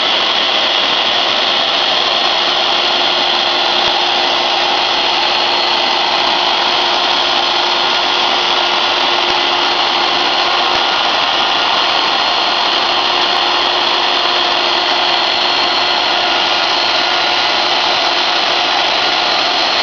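CNC router spindle running and cutting, a steady whine over an even cutting noise.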